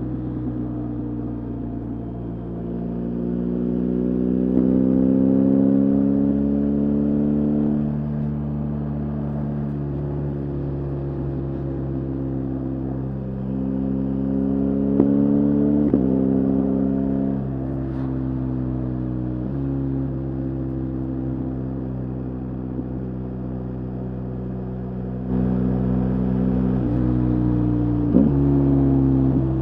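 BMW R 1250 GS Adventure's boxer-twin engine under way, its pitch climbing as it pulls and sinking as it eases off, with several abrupt jumps in pitch at gear changes.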